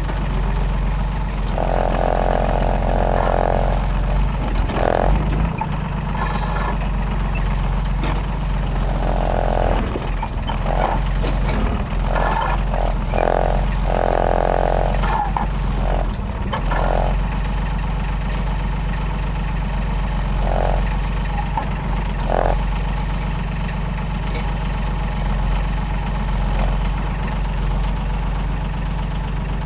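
Heavy diesel engine of a Timberjack forwarder running steadily, with several short higher-pitched whines and a few knocks laid over it.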